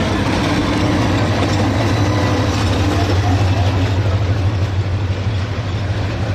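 Train running, with a steady loud low engine hum and a wide noise of the moving train over it.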